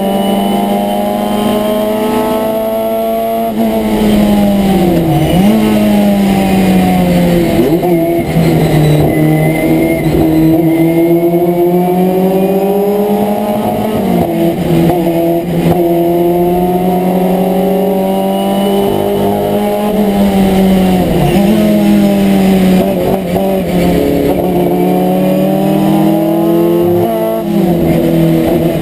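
Abarth 1000 TC race car's four-cylinder engine heard from inside the cockpit, running hard. Its pitch climbs steadily through each gear and drops sharply every few seconds at the gear changes and lifts for corners.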